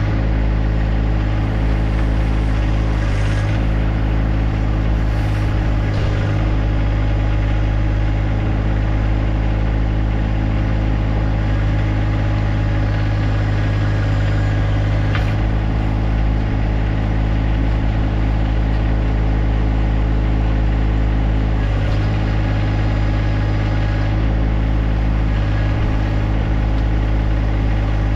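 John Deere 1025R compact tractor's three-cylinder diesel engine running at a steady speed, with a few faint clicks.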